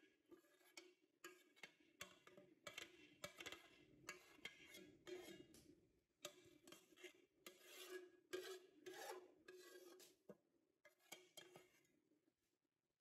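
Faint kitchen handling sounds: irregular scraping and light knocks of utensils and pots, over a faint steady hum.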